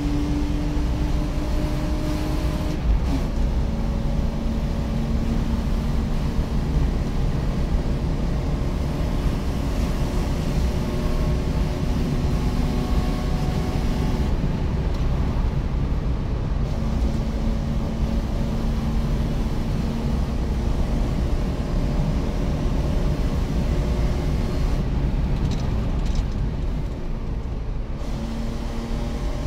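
BMW E36 320i's 2.0-litre 24-valve straight-six running hard under racing load, heard from inside the car, with heavy road and wind noise. Its note holds fairly steady for stretches and drops abruptly about three seconds in.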